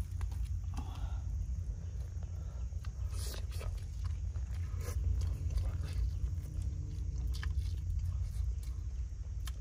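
Someone biting and chewing food, with scattered small clicks over a steady low rumble.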